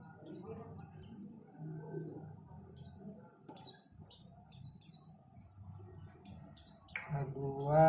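White-eyes (pleci) chirping: short, high calls that fall in pitch, coming in quick clusters with gaps between.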